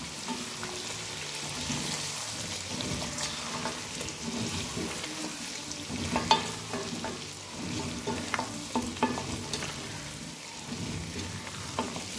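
Chicken pieces and spices sizzling in oil in a metal karahi while a spatula stirs them, with steady frying hiss and scattered scrapes and light clicks of the spatula against the pan.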